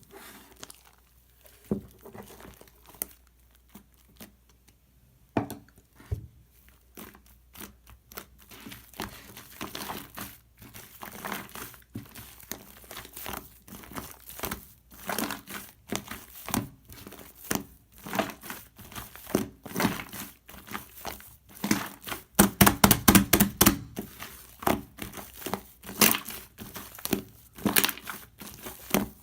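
Foam being squeezed and crushed by hand: many small clicks and pops, sparse at first, coming thicker and louder as it goes, with the densest, loudest run a little past two-thirds through.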